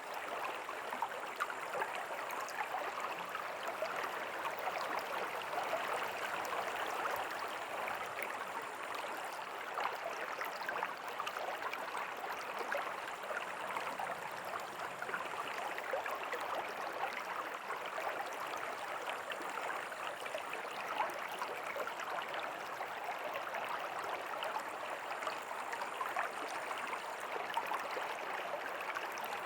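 A river's water flowing steadily over stones, a continuous even rush with fine bubbling and splashing detail.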